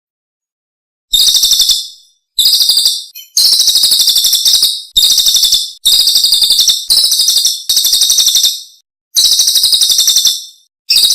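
Recorded songbird song used as masteran for training caged songbirds. After about a second of silence come repeated short, rapid, high-pitched trilled phrases, each roughly half a second to a second and a half long, separated by brief silent gaps.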